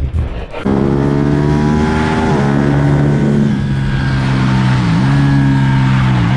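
Motorcycle engine running hard at a fairly steady pitch, cutting in abruptly just under a second in. The pitch dips briefly about two and a half and five seconds in.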